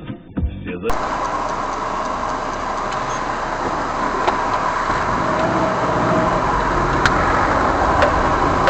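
Steady road and engine noise of a car driving. A short tail of music cuts off about a second in.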